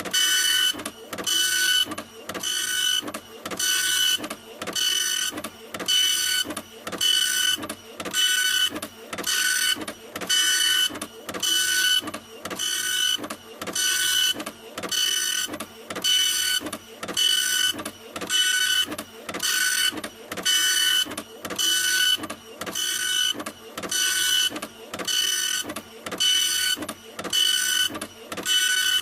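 Printer running continuously with a rhythmic mechanical back-and-forth, several even strokes a second, each carrying a steady whining tone.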